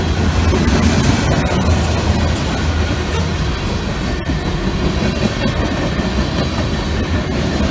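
Freight train of covered hopper cars rolling past at close range: a steady noise of steel wheels on the rails.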